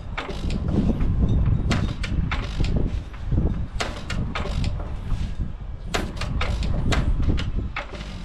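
Single-cylinder 1 3/4 hp Hercules Economy hit-and-miss engine running, firing in irregularly spaced sharp exhaust bangs over a low mechanical rumble, on its first run after a cylinder-head rebuild.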